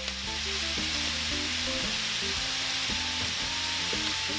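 Ground beef frying in a pan, a steady sizzle, with background music playing under it.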